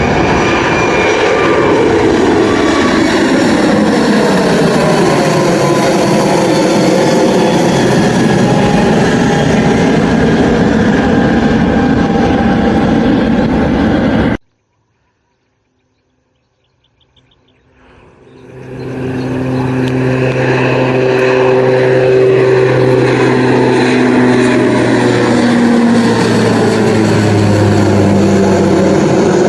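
Loud aircraft engine noise from a plane passing close by, its tones sweeping down and back up. It cuts off abruptly about halfway, and after a few seconds of silence another aircraft's engine noise fades in with a steady low hum.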